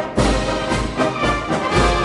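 Brass band music with a steady low beat, about two beats a second.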